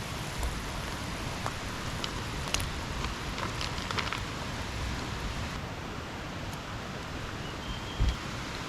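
Steady rain falling, with a few light clicks in the middle and a low thump near the end.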